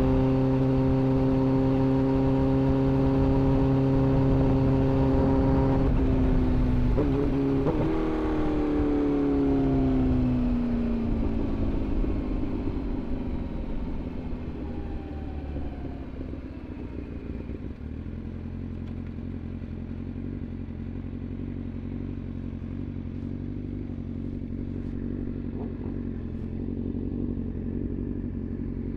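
Sport motorcycle engine holding steady revs, then a brief break about seven seconds in followed by the revs falling as it slows, settling into a low steady idle for the second half.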